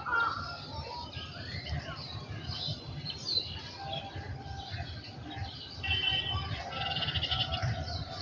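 A small songbird chirping and calling in varied short notes, with a rapid trill about six seconds in, over a steady low rumble.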